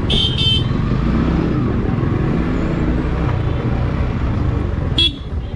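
Yamaha MT-15's 155 cc single-cylinder engine running under way in traffic, its pitch wavering with the throttle. Short high-pitched sounds cut in twice just after the start, and once more near the end, where the engine eases off.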